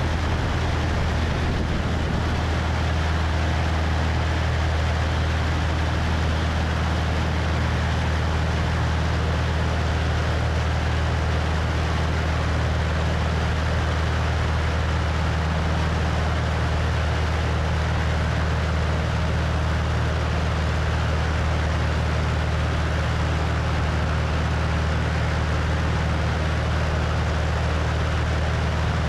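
Cessna 172's piston engine and propeller droning steadily in flight, heard from the wing with steady wind rushing over the microphone.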